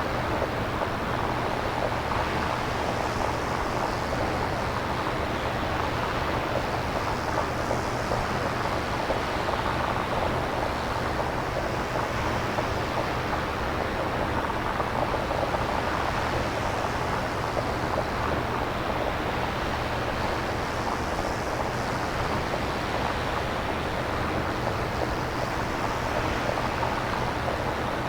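Synthesized nature-style noise: a steady rushing hiss, like distant surf, centred in the middle range. The upper part rises and falls in slow, gentle swells every few seconds, over a faint steady low hum.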